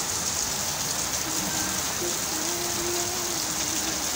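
Heavy monsoon rain falling, a steady, even hiss of rain on the wet street.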